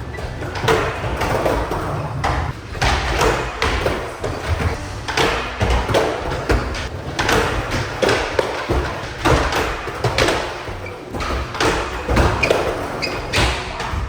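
Skateboard rolling with a steady low rumble from the wheels, broken by repeated sharp clacks and thuds of the board striking the ground.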